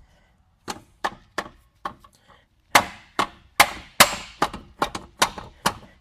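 Hammer blows on a stuck rear wheel hub, a dozen or so sharp strikes about two to three a second, lighter at first and harder from about halfway through, as the seized hub is beaten out of the knuckle.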